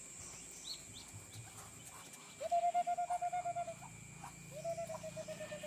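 Two drawn-out, trilling calls from a muscovy duck, the first about halfway through and the second near the end, each a steady flat note that pulses quickly.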